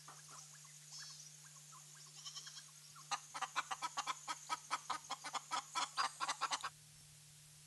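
Birds calling from a treetop: faint scattered chirps, then a loud rapid run of repeated calls, about five a second, that stops abruptly about a second before the end.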